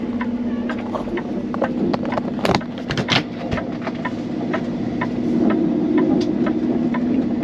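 Peterbilt 389 semi-truck's diesel engine running at low speed with a steady low hum, while the rig turns slowly through an intersection. A few sharp knocks come about two and a half to three seconds in.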